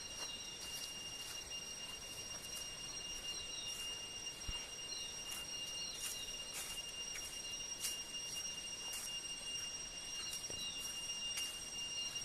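Insects calling in a steady, high-pitched drone of unbroken tones, over an even outdoor background, with short quick chirps and faint ticks scattered through.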